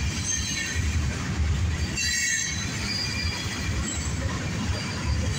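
Freight train cars rolling past with a steady low rumble, over thin high-pitched steel wheel squeal that is strongest about two seconds in.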